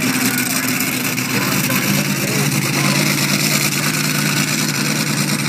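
Monster truck engine running steadily, settling to a lower note a little over a second in, under a constant loud hiss.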